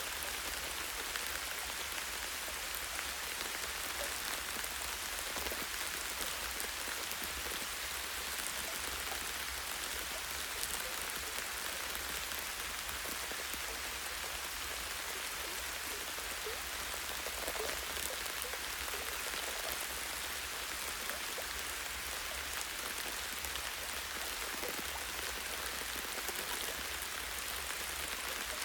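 Light, steady rain falling on trees, a constant hiss with many small drops pattering on leaves and a branch.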